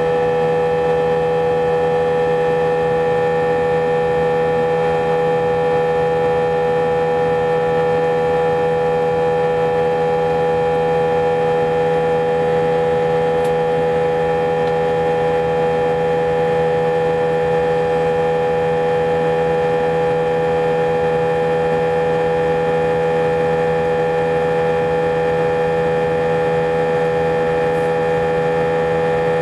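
Airbus A320 engine noise heard inside the cabin: a loud, unchanging drone with several steady humming tones layered over it. Passengers took this unusually loud noise as a sign that something was not right.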